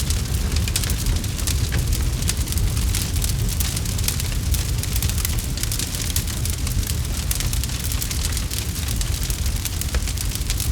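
Campfire crackling: many small, quick pops and snaps over a steady low rumble.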